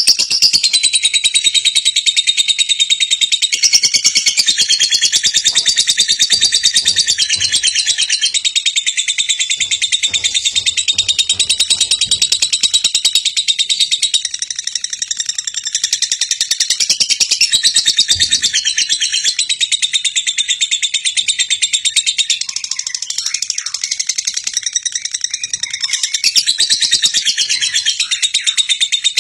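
A dense, continuous chorus of many birds chirping, high-pitched and rapid.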